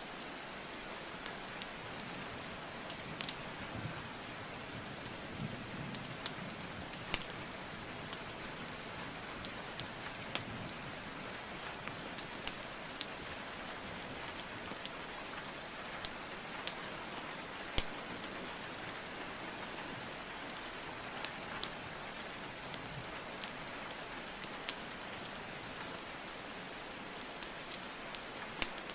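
Steady rainfall hiss with a wood fire crackling over it: scattered sharp pops and snaps from burning logs, a few of them louder, at irregular intervals throughout.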